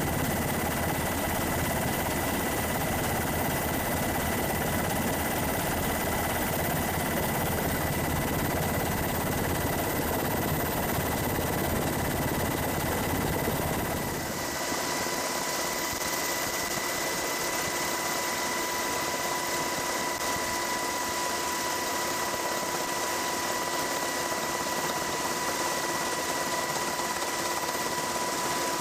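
Steady engine and machinery noise with steady whining tones. About halfway through it changes abruptly: the deep rumble drops away and a higher hiss with different steady tones takes over.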